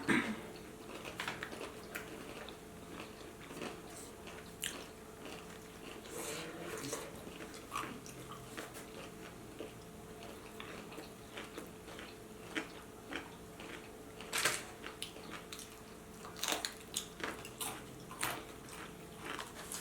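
Close-up biting and chewing of a Burger King Whopper: wet mouth sounds and smacks with scattered sharper clicks.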